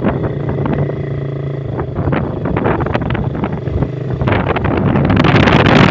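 Motorcycle engine running at a steady pitch while riding, with wind on the microphone; from about four seconds in the wind noise grows and becomes the loudest sound.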